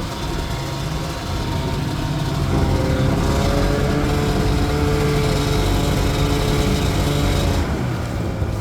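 Two-stroke Arctic Cat snowmobile engine running under way, its pitch and loudness rising about two seconds in and then holding steady.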